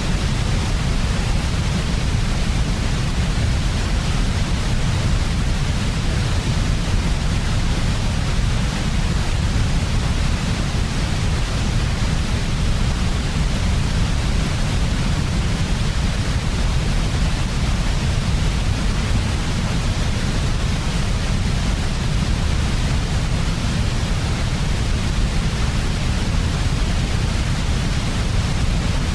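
Steady, unchanging electronic white noise made as a sleep aid: a deep rumble under an even hiss.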